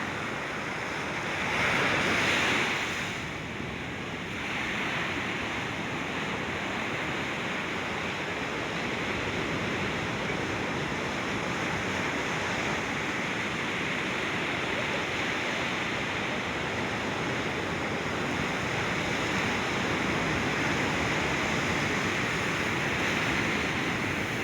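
Ocean surf: steady wash of waves breaking on the beach, with a louder surge about two seconds in.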